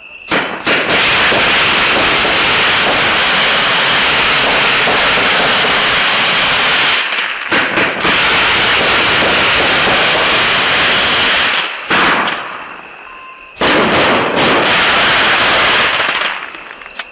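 Hot Fireworks "Wild Fire" 21-shot cake firing its shots, with a dense, loud crackle of crackling mines and bursts. The crackle comes in three long stretches, with a short lull about seven seconds in and a longer lull about twelve seconds in.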